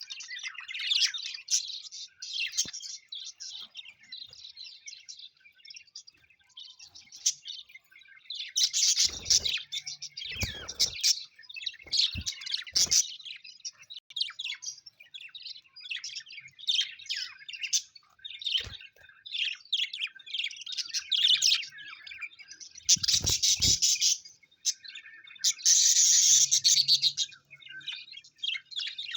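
A flock of small pet parrots chirping and chattering without a break, rising into louder flurries a few times, with a few low thumps among them.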